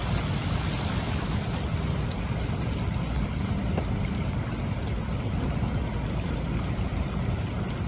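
Steady rushing noise of floodwater, heavy in a low rumble with a lighter hiss above it.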